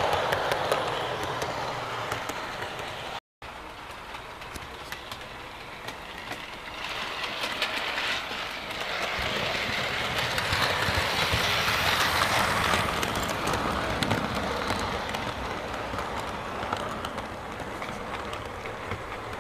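Train running along the track, its running noise swelling to a peak about twelve seconds in and then fading. It cuts out abruptly for a moment about three seconds in.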